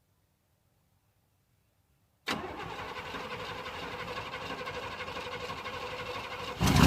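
A Chevrolet 350 small-block V8 in a long-parked truck cranking on the starter, then catching and firing up much louder near the end. The first two seconds are silent.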